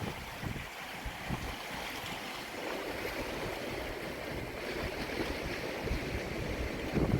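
Steady wash of wind and water at a harbour entrance, with wind gusts rumbling on the microphone about half a second in and again near the end.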